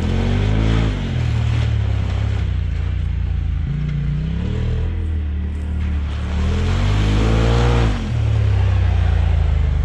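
Turbocharged Polaris RZR side-by-side engine under hard throttle, revving up in three long climbs, its pitch dropping off sharply about one second in and again near eight seconds.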